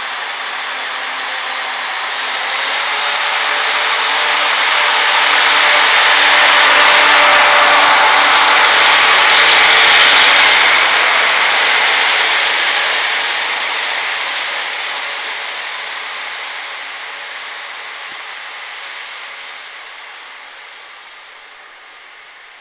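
Diesel multiple unit passenger train running past along the platform: wheel-on-rail noise with a faint high whine that builds to its loudest about ten seconds in, then fades away as the train draws off.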